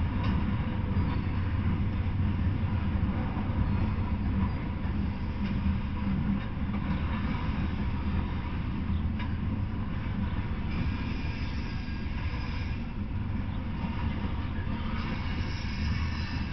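Freight train of open-top coal hopper cars rolling past, a steady low rumble and clatter of wheels on the rails. A thin, higher-pitched squeal comes in twice in the second half.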